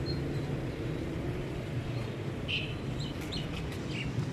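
Small birds chirping in quick, short high notes from about two and a half seconds in, over a steady low hum.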